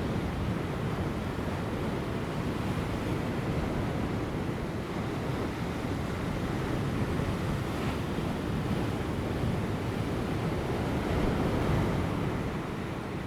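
Ocean surf breaking on offshore rocks, a steady wash of waves that swells a little about eleven seconds in, with light wind.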